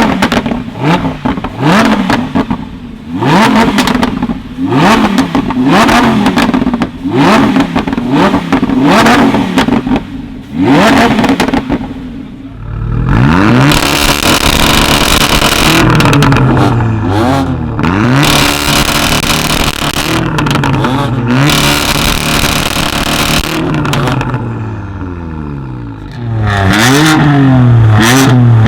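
Tuned performance car engine revved hard through a loud exhaust. First come quick, sharp blips about once a second, with crackles and pops between them. From about halfway, longer revs climb and fall at a lower pitch, easing off near the end before climbing again.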